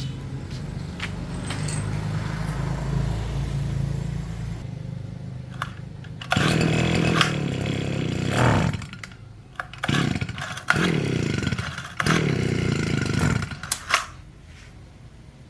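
Chainsaw engine running steadily, then stopping about four and a half seconds in. It then revs in three short bursts, each falling away as the engine dies back down.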